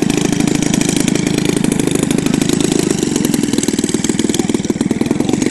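Small airplane's piston engine running steadily nearby, with a fast, even pulse that eases slightly about four seconds in.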